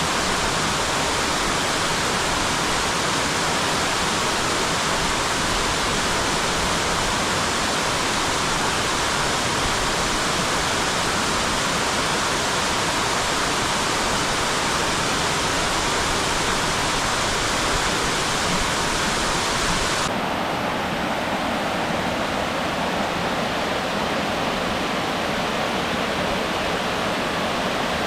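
A tall waterfall's steady rush of falling water. About twenty seconds in, the sound abruptly loses much of its high hiss and carries on a little duller.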